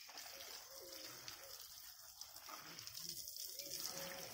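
A bird calling in repeated short, low notes that rise and fall, several times, over the steady hiss of water running from a hose and splashing onto leafy greens in a bamboo basket.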